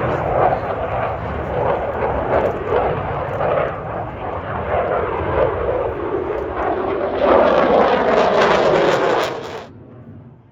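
Airplane engine roar, rough and fluctuating, swelling louder about two-thirds of the way in and then cutting off suddenly near the end.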